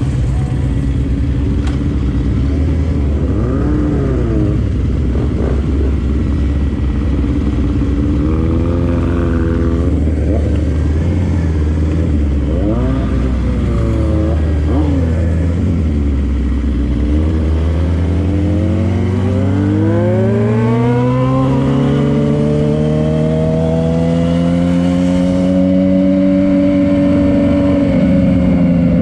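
Vehicle engine running at a steady speed, then climbing steadily in pitch as it accelerates for several seconds, easing off near the end.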